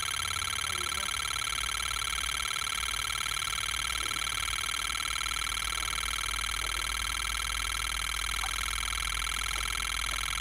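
Electronic carp bite alarm sounding one unbroken high-pitched tone: a run, a carp taking line off the reel.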